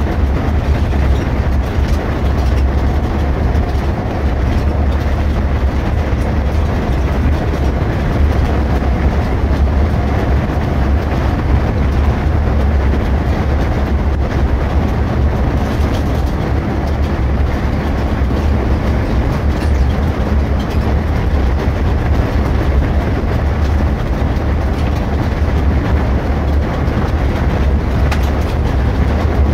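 Irisbus Récréo II coach under way, heard from inside: a steady engine drone and road rumble with a strong low hum that holds even.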